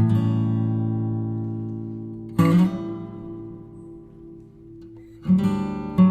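Background music: slow guitar chords strummed and left to ring out, a new chord every two to three seconds.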